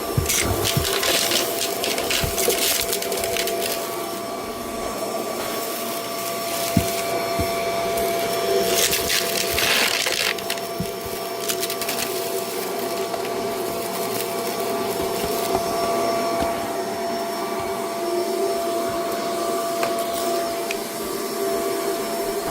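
Vacuum cleaner running with a steady motor whine. Scattered clicks and bursts of hissing rattle come from debris being sucked up off a rug, mostly in the first few seconds and again about nine seconds in.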